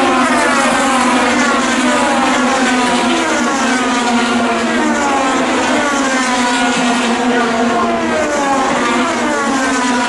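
IndyCar race cars running at speed and passing one after another, each engine note sliding down in pitch as it goes by.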